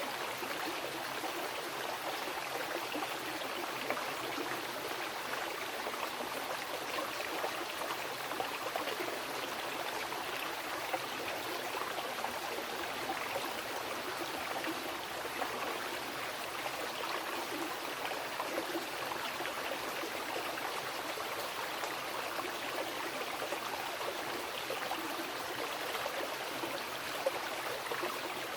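Mountain river flowing, a steady rush of water with small splashes and gurgles over rocks.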